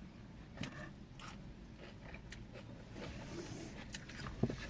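Close-up eating sounds: a person chewing food, with soft wet mouth clicks scattered through.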